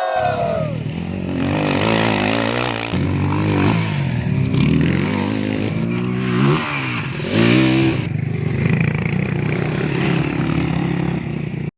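Motorcycle engine running, revved up and back down several times, then cut off abruptly near the end.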